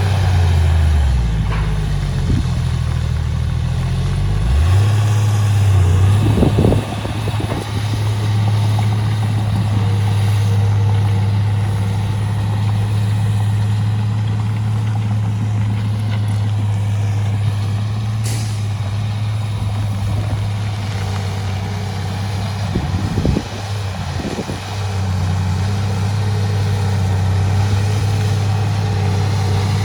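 Heavy diesel engine of earthmoving machinery running steadily, its pitch dropping over the first few seconds. Short knocks come about six or seven seconds in and again near twenty-three seconds.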